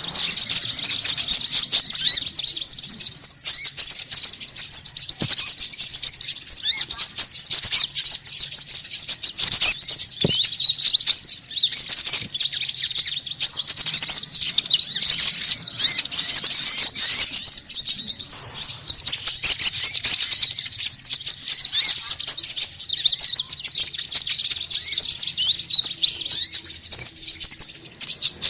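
A dense, continuous chorus of small songbirds twittering and chirping rapidly at a high pitch, an agitated, noisy chatter played as a bird-trapping lure call.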